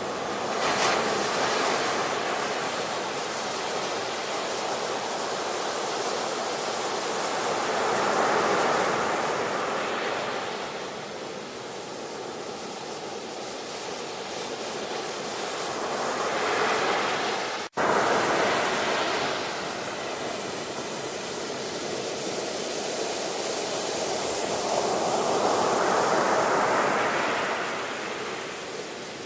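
Ocean surf: waves breaking and washing up the shore, the rush swelling and ebbing about every eight to nine seconds. There is a momentary break in the sound about two-thirds of the way through.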